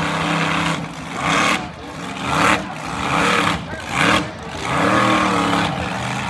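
Monster truck engine revving hard in repeated surges, its pitch climbing and dropping every second or so.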